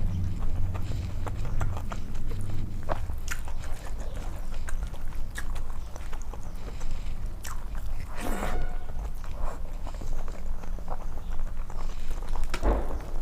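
Close-miked chewing of a mouthful of food, with many short wet clicks and smacks over a steady low hum. Two louder rustling swishes come about eight seconds in and near the end.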